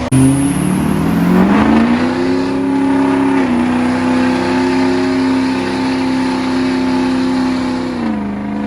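Diesel pickup truck engine revving up and held at high revs for several seconds, easing off near the end.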